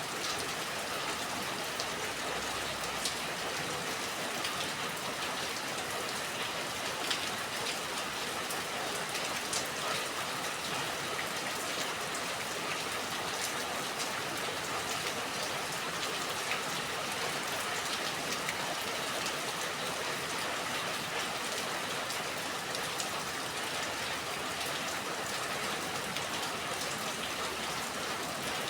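Steady rain falling, an even hiss with individual drops pattering on a surface.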